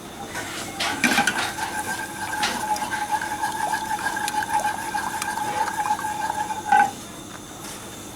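Jus ladled into a pan of hot reduced sauce and stirred, with the liquid bubbling and the utensil clinking on the pan. Over it runs a steady high whine that starts about a second in and cuts off abruptly near the end.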